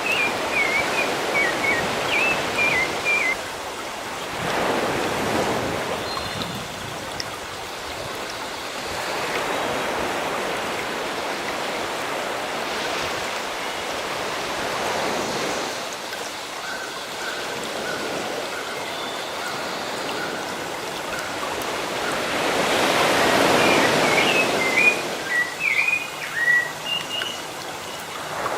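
Sea waves washing in, swelling and falling away every few seconds. A small bird chirps in quick high phrases at the start and again near the end.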